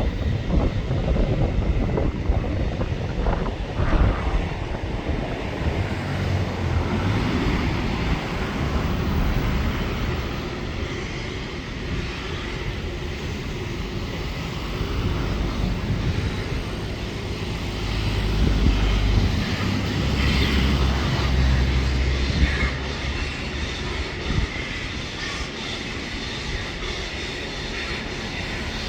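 Steam locomotive and its train running on the line: a steady heavy rumble, with a few sharp beats in the first seconds and a louder stretch a little past the middle.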